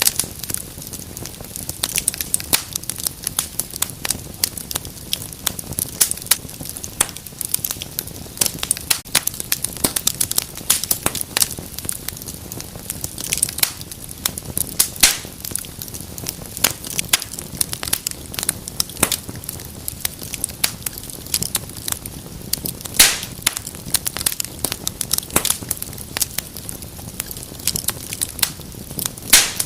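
Wood fire burning in a fireplace, crackling and popping constantly in quick irregular snaps over a low steady rush of the flames.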